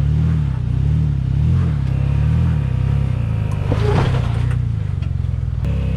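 Jeep engine under load at low speed, its revs rising and falling again and again as the throttle is fed on and off while crawling over rocks. A brief crunching burst about four seconds in.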